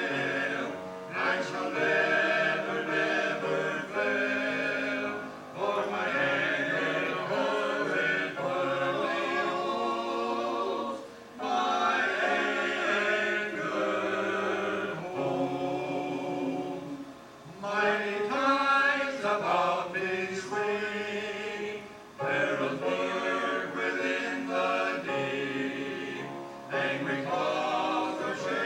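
A choir singing in phrases, with short breaks between them.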